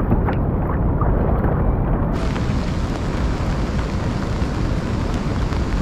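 Heavy rushing water roaring steadily, with a deep rumble, as from a waterfall or big rapids.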